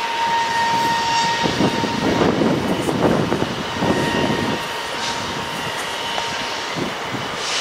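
Distant approaching freight train, a Class 66 diesel locomotive not yet in view: a steady rushing rumble with a thin high whine, the whine strongest in the first second or so.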